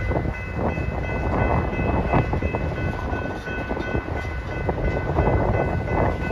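Tank cars of a BNSF freight train rolling past: a steady rumble of steel wheels on rail with scattered clicks and clanks, and a steady high-pitched whine of several tones over it.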